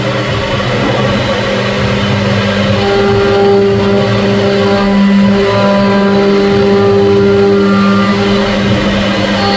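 CNC machine running: a steady motor hum with higher whining tones that start and stop every few seconds.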